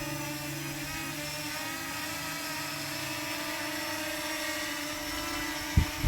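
Parrot Anafi quadcopter hovering close by, its motors and propellers giving a steady buzzing whine of several held tones. There is a brief low thump near the end.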